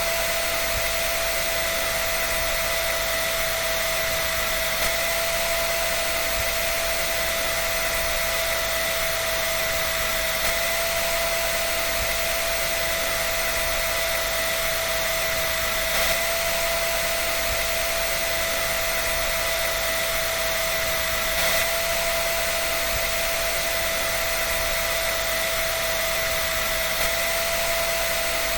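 Electric dryer running steadily: an even rush of air with a constant whine over it.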